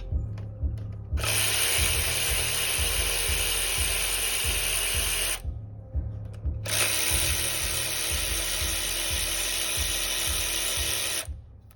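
Handheld power tool run in two bursts of about four seconds each, starting and stopping sharply, while fasteners are being taken off an LS4 V8 engine during teardown.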